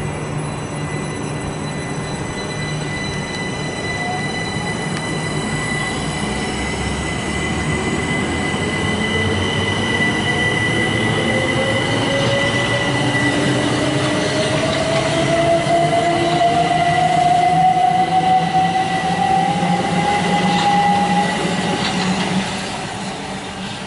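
Southeastern electric multiple unit running along the platform, its traction motors whining in a tone that rises slowly in pitch as the train gathers speed. A steady high tone and the rumble of wheels on rail run beneath, and the sound grows louder before falling away near the end.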